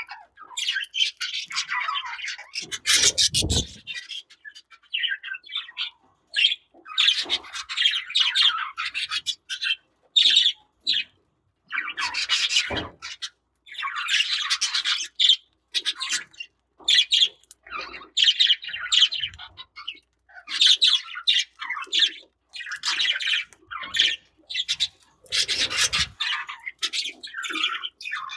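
Budgerigars chirping and chattering in short, irregular bursts, with two low thumps among them.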